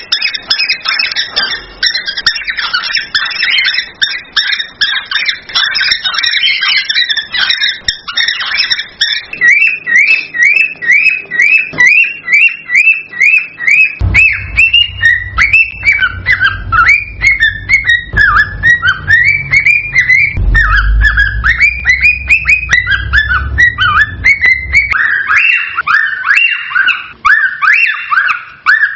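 Cockatiels singing: a fast, unbroken run of short whistled notes, with denser chatter in the first part. This is the excited song that a male cockatiel uses in courtship. A low rumble runs underneath through the middle of the stretch.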